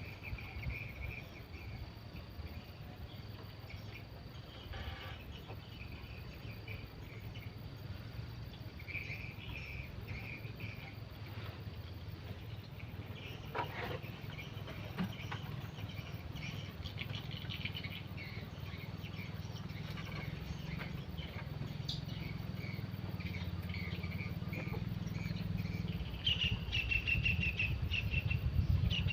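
Insects chirping in pulsed trills, with a thin steady high tone through the first third. A low rumble runs underneath and grows louder toward the end.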